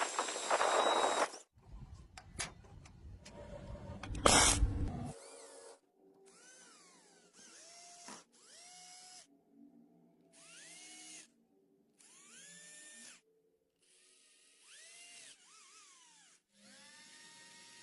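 A loud rush of noise with a few sharp clicks, then a small high-speed electric motor started in about five short runs. Each time its whine rises in pitch as it spins up and then holds steady.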